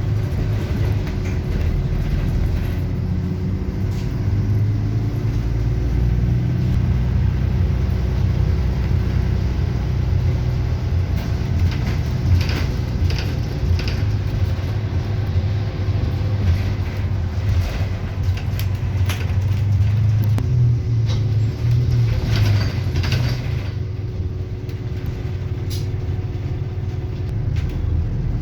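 City bus engine running as the bus drives along, a steady low rumble heard from inside the cabin, with a few brief rattles.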